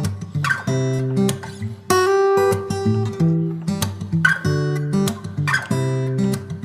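Background music: acoustic guitar chords being strummed, changing every second or so.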